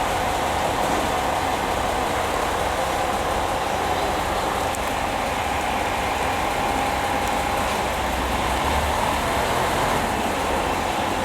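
Train at a station platform: a steady running noise with a constant whine held throughout.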